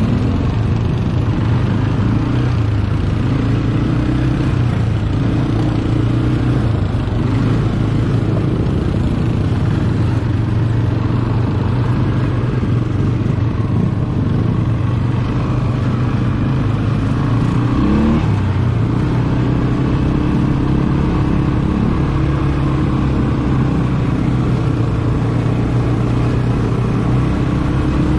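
ATV engine running as it is ridden, its pitch rising and falling with the throttle, with one clear rev-up about two-thirds of the way through.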